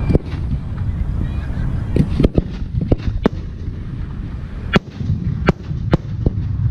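Aerial firework shells bursting: a string of about ten sharp bangs and cracks, several in quick succession, over a steady low rumble.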